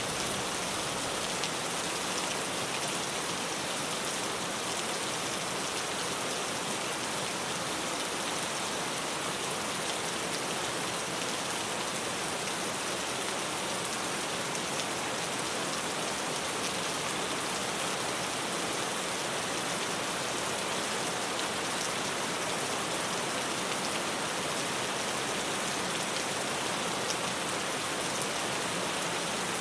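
Steady rain drumming on a tin roof, an even patter with no thunder.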